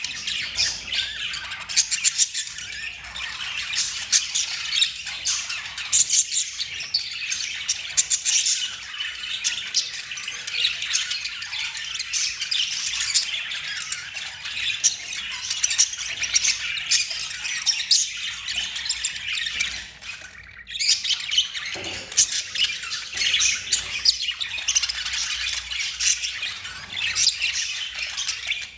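Budgerigars chattering and warbling nonstop, a dense run of quick chirps, clicks and squawks, with a brief lull about twenty seconds in.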